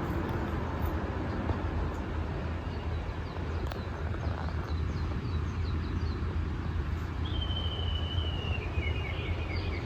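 Wild birds singing: a few short high chirps a few seconds in, then one long whistled call falling slightly in pitch, with a few trailing notes, near the end. A steady low rumble runs underneath.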